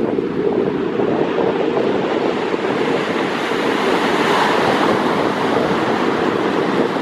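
Steady rushing noise of wind buffeting the microphone and surf washing on the shore, swelling briefly about four to five seconds in.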